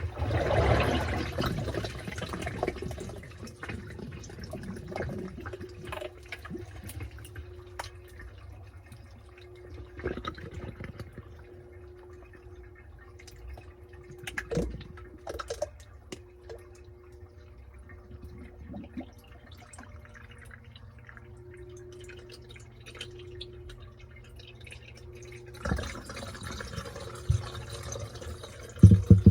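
Washing machine washing a load in water: water splashes and sloshes, loudest at the start and again near the end, over a low steady hum, with the drive motor whining in on-and-off spells of a few seconds and small knocks in between.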